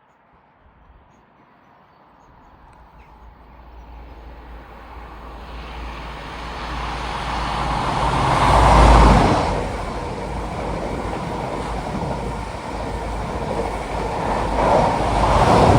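A train approaching and passing: a rumble and wheel noise that build over several seconds to a loud peak about halfway, run on steadily, and swell again near the end.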